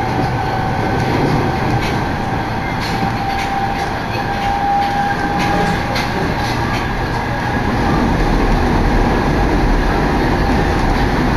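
Running noise heard from inside a JR Sotobo Line train car at speed: a steady rumble of wheels on rail with a faint steady whine and occasional light clicks. The low rumble grows louder about eight seconds in.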